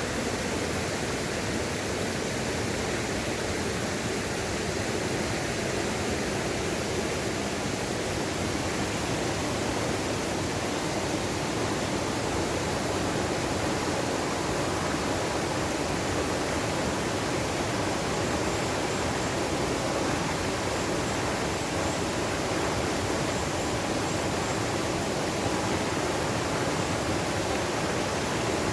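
Steady rushing of a mountain valley stream, water running over rocks without a break.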